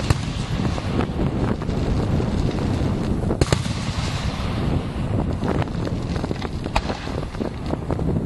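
Fireworks display: a continuous low rumble of shells bursting, broken by sharp cracks and bangs, the sharpest right at the start, about three and a half seconds in and near seven seconds.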